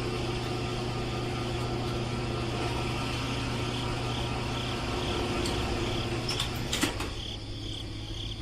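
A small electric motor running steadily with a low hum, dropping off about seven seconds in.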